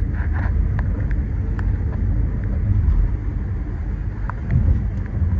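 Steady low rumble of a moving car's engine and tyres, heard from inside the cabin while driving.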